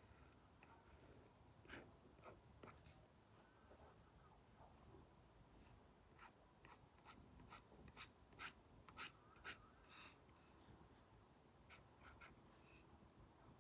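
Apple Pencil Pro tip tapping and stroking on a paper-like matte film over an iPad screen: faint scratchy strokes and a run of light clicks, with a few louder taps in quick succession past the middle.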